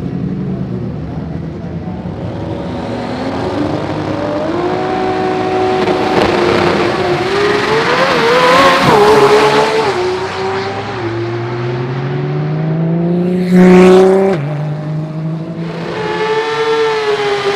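Drag racing car engines at full throttle, accelerating hard down the strip. The pitch climbs and steps down at each gear change, is loudest a little before halfway, and peaks sharply near the end before cutting off suddenly.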